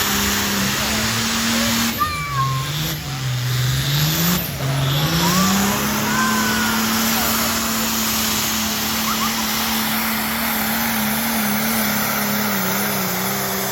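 Engine of a truck-and-tractor-pull vehicle running hard at high revs. About two seconds in its pitch sags for a few seconds, then climbs back and holds steady.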